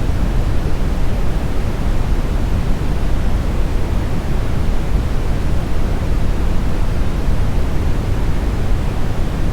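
Steady smoothed brown noise: an even, deep rushing hiss weighted toward the bass, with no changes or events.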